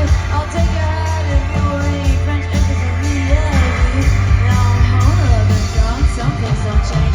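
Live rock band playing, with singing over bass and drums.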